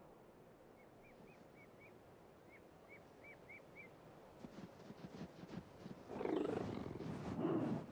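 Faint series of short bird chirps, then wild cats growling and snarling loudly from about six seconds in, in a territorial confrontation involving a lynx.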